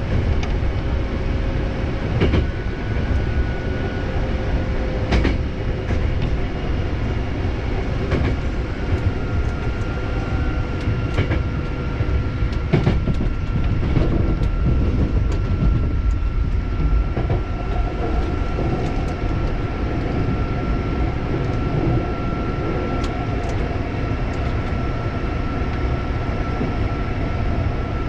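Hankyu 7000 series electric train running, heard from inside the car: a steady low rumble of wheels on rail, with irregular clicks over rail joints and a thin steady whine that sets in about a third of the way through.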